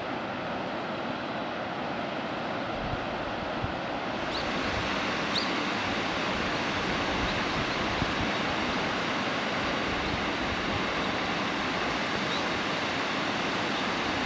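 Steady rushing running noise of a train in motion, growing louder about four seconds in, with a couple of faint brief squeals.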